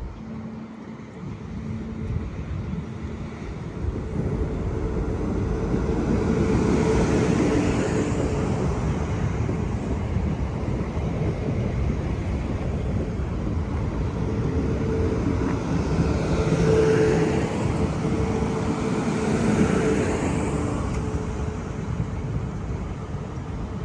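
A train passing along the line with a continuous rumble that swells twice, about a quarter and about three-quarters of the way through, with a faint steady hum under it.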